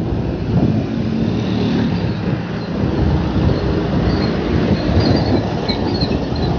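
Wind buffeting the microphone of a moving bicycle, mixed with the steady noise of road traffic passing alongside. A few faint high chirps come in the second half.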